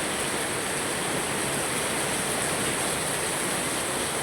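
Heavy rain pouring down steadily as an even, unbroken hiss.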